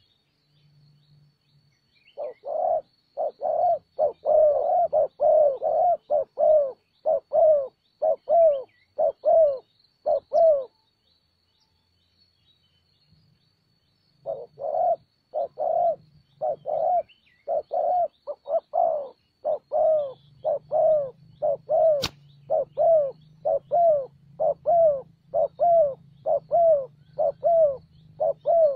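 Spotted doves cooing: short, arching coos repeated about twice a second in two long bouts, with a pause of about four seconds between them. A single sharp click sounds about 22 seconds in.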